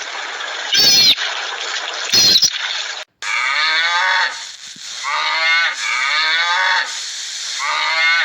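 Cow mooing: four drawn-out calls about a second each, following a sudden cut from two short, higher-pitched animal calls in the first three seconds.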